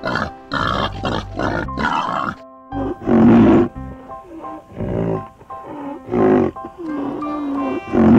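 Boar grunting in quick repeated bursts, then, after a short break, a few loud separate rhino calls, over background music.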